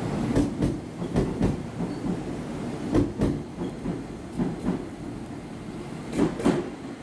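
Train rolling slowly over rail joints: a low rumble with paired wheel clacks, one pair from each bogie's two axles, about every second and a half.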